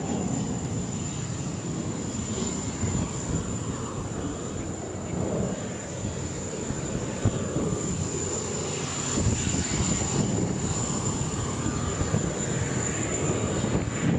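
Fixed-wing aircraft engine noise: a steady, dense roar with a thin high-pitched whine running through it.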